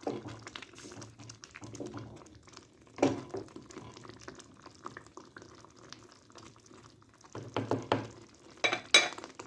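Tomato and shrimp sauce in a small clay tagine simmering, bubbling with scattered wet pops; the louder pops come about three seconds in and again near the end.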